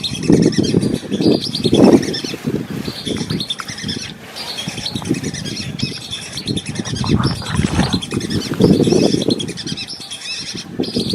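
Swamp birds chirping and twittering in a dense, continuous chorus, over irregular loud low rumbling bursts that come and go every second or so.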